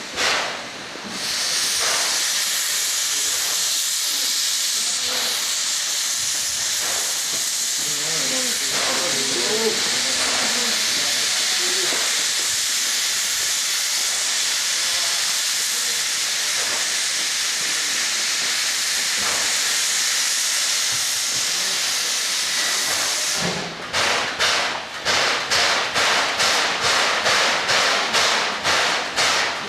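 Steam locomotive C11 325 letting off a steady, loud hiss of steam for most of the time, then, near the end, setting off with regular exhaust chuffs at about two a second.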